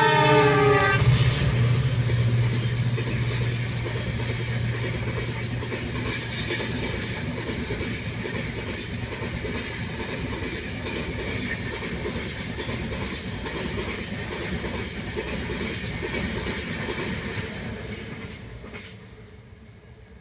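A train horn sounding and cutting off about a second in, then a train running past with a steady rumble and rail clatter, fading away over the last few seconds.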